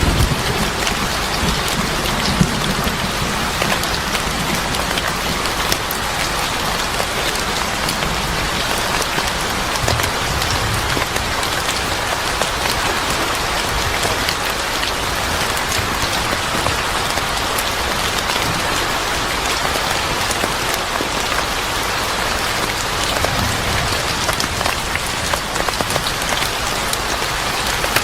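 Steady rain falling, an even hiss dotted throughout with many small sharp ticks, over a low rumble.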